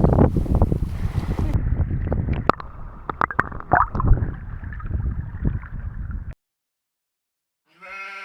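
Water gurgling and sloshing close to the microphone, with small clicks and splashes, cutting off suddenly about six seconds in. After a short silence a sheep bleats near the end.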